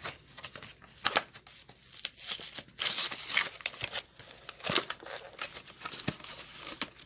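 Plastic blister and cardboard card of a die-cast toy car package crinkling and crackling with many irregular sharp clicks and some tearing as the package is worked open by hand.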